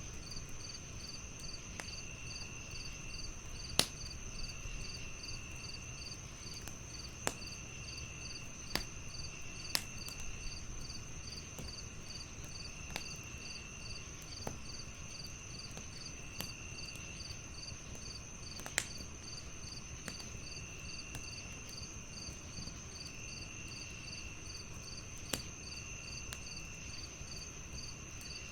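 Crickets chirping in a steady, even rhythm over a continuous high insect trill, with another trill starting and stopping every couple of seconds. A wood fire crackles underneath with a low rumble, and sharp pops come every few seconds; the pops are the loudest sounds.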